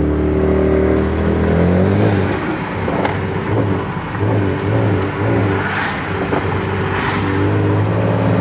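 Car engine running while driving, its note shifting about two seconds in and then rising and falling unevenly as it accelerates.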